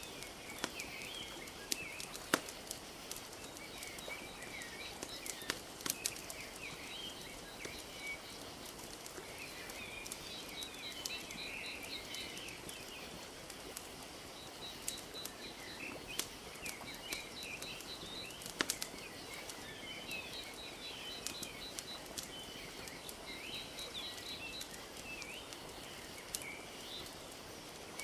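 Wood fire crackling with scattered sharp pops, over a steady wash of lapping lake water, while small birds chirp and trill throughout.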